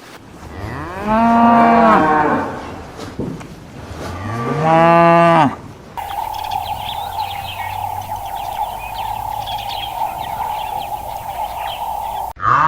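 A cow mooing twice, two long calls, each rising and then falling in pitch. After them comes a steady hum with faint chirping.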